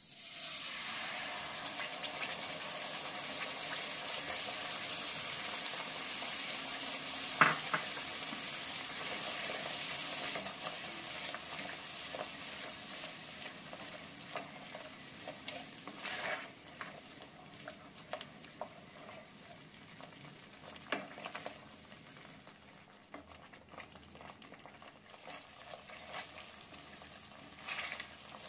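Ground masala paste hits hot oil in a nonstick pan and sizzles at once, then keeps frying while a spoon stirs it, the sizzle slowly fading. A sharp knock sounds about seven seconds in, with a few lighter knocks later.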